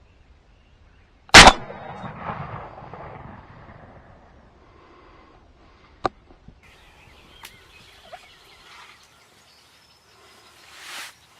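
A single shotgun shot at a turkey about a second in, its report rolling away over the next couple of seconds. A sharp click comes about six seconds in, with faint rustling after it.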